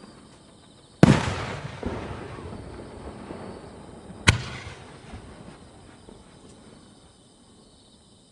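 Aerial firework shells bursting: a loud boom about a second in that fades away slowly with echoes, a sharper bang about four seconds in, and another boom just starting at the very end.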